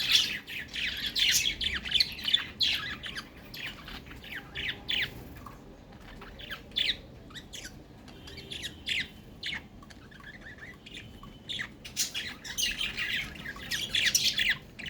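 Pet budgerigars chirping and squawking in rapid runs of short calls, busiest in the first few seconds and again near the end.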